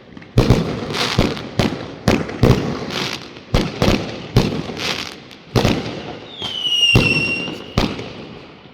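Fireworks going off in quick succession, with sharp bangs roughly twice a second at uneven intervals. About six and a half seconds in, a high whistle slides down in pitch and holds for about a second.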